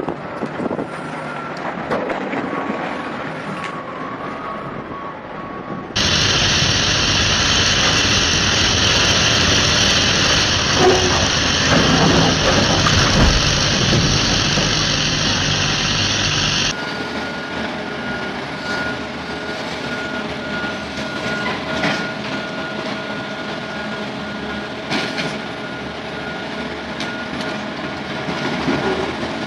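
Heavy earthmoving machinery running, in three sections that change abruptly, the middle one louder; a steady high tone runs through the last part.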